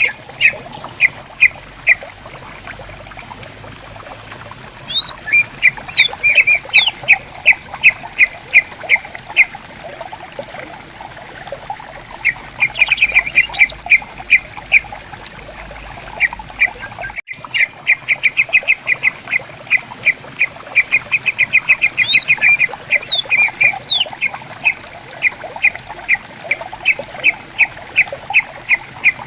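Green leafbird (cucak ijo) singing: fast runs of short, sharp repeated notes, several a second, broken by occasional sweeping whistles, over a faint wash of flowing water. The sound cuts out for an instant a little past halfway.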